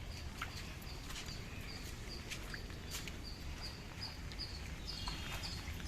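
Steady outdoor background noise with a short, high chirp repeating evenly, about three times a second, and a few faint clicks.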